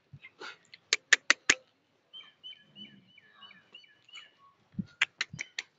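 A small bird chirping, a quick series of short high calls about three a second, between two runs of four sharp clicks, one about a second in and one near the end; the clicks are the loudest sounds.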